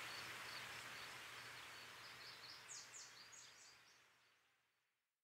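Near silence: a faint hiss fading away, with a handful of faint, short, high chirps about three seconds in, before it goes fully silent.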